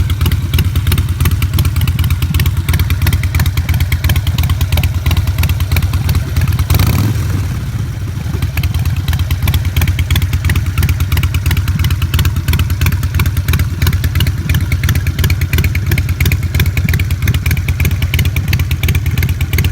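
Harley-Davidson Sportster Forty-Eight's 1200 cc air-cooled V-twin running steadily through a Vance & Hines aftermarket exhaust, a loud, even pulsing idle.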